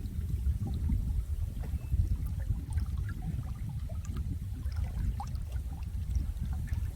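Flowing water with a steady low rumble and scattered small drips and plinks, like a stream or brook running over stones.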